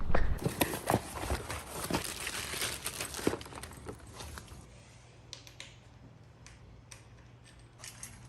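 Handling of plastic packaging and a charger: crinkling, rustling and small clicks and knocks, dense for the first few seconds, then a few scattered clicks.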